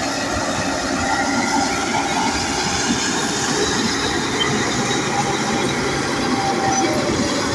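Bulldozer working steadily, its engine running under the clank and squeal of its steel tracks.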